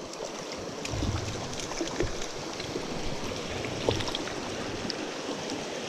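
Mountain stream water rushing steadily, with a few faint clicks over it.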